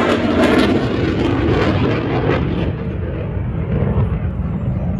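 Jet aircraft engine noise as a plane flies past: a loud hiss and rumble whose high part dies away about halfway through, leaving a low rumble.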